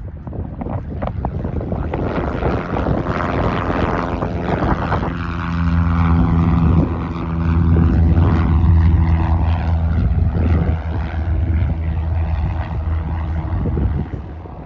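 Propeller-driven light airplane's piston engine running loud and steady as the plane passes close by, building up and then fading away near the end.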